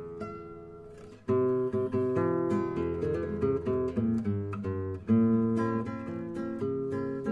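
Acoustic guitar playing: a chord dies away for about a second, then plucked and strummed chords resume louder, with a strong strummed accent about five seconds in.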